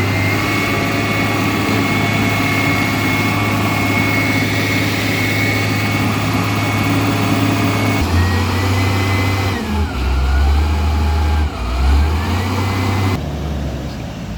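Heavy vehicle engines running steadily, the sound changing abruptly twice, a little past halfway and near the end. In between, a whine dips and rises again twice.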